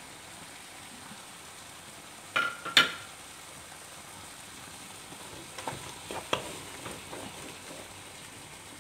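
Pak choy, spring onions and beaten egg sizzling steadily in oil in a wok. Two sharp knocks about two and a half seconds in, then a wooden spatula knocking and scraping against the pan several times as it stirs.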